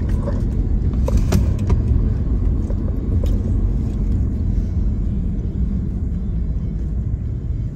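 Steady low road and engine rumble heard from inside a moving car, with a few faint clicks.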